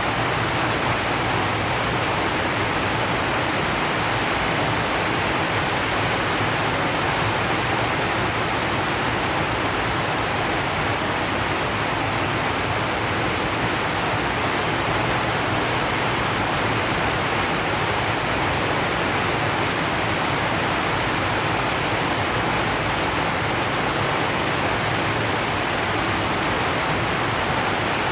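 Heavy rain on a corrugated zinc roof: a dense, even hiss with no separate drops standing out.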